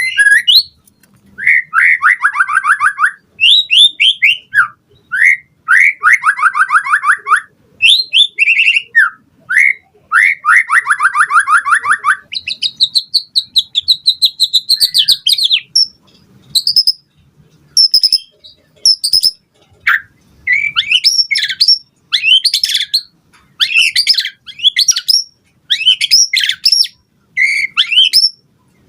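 White-rumped shama singing a loud, varied song. It opens with phrases of fast rattling trills, holds one long high trill in the middle, then moves to quick, sharp whistled notes toward the end.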